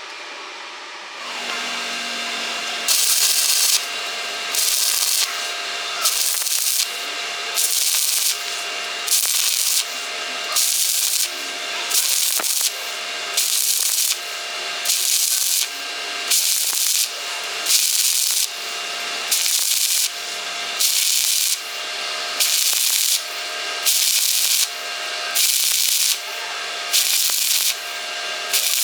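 Rhythmic rubbing or scraping on metal, about one hissy stroke a second, over a steady hum.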